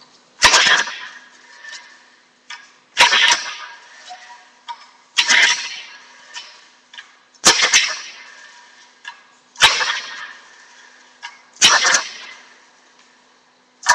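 Baja Doodle Bug mini bike's small engine being pull-started six times, about every two seconds, each yank of the recoil cord a sharp snap that fades quickly. The engine never catches; the owner puts the hard start down to the cold.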